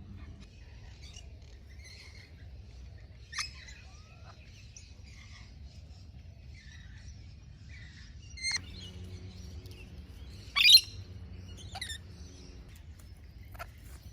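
Parrots calling, with scattered chirps throughout and a few short, sharp, loud calls, the loudest about ten and a half seconds in.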